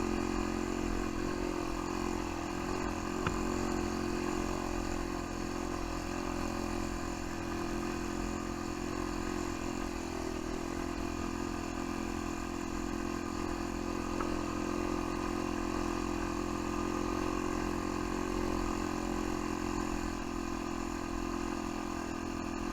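Jaeger 200 ATV engine running steadily at an even pitch.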